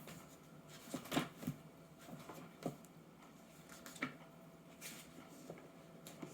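A paper pamphlet being handled and its pages turned: a scattering of short rustles and soft taps, loudest about a second in.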